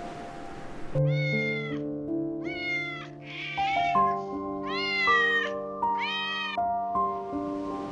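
A cat meowing five times, about a second apart, the third meow rougher than the others, over soft background music of sustained keyboard notes.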